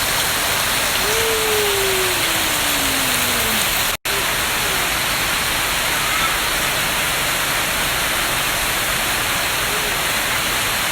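Heavy rain falling, a steady dense hiss. A faint tone slides downward from about a second in for a couple of seconds.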